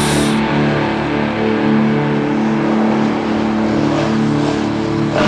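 Dirt bike engine running at steady, near-constant revs.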